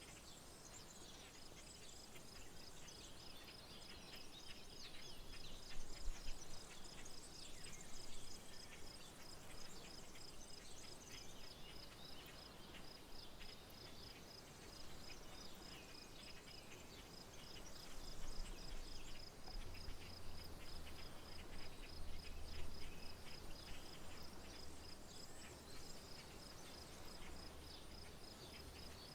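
Rural outdoor ambience: an insect, likely a cricket, chirps in a steady, even pulse of several chirps a second, while birds sing intermittently around it. A low steady hum joins in about two-thirds of the way through.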